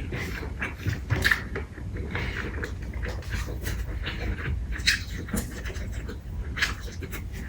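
Close-up sounds of a person eating: chewing, wet smacking and small crunches in an irregular run, over a steady low hum.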